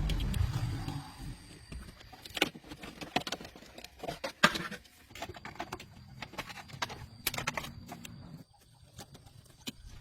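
A car engine running, dying away over the first second or two, followed by scattered sharp knocks and clicks, the loudest about halfway through.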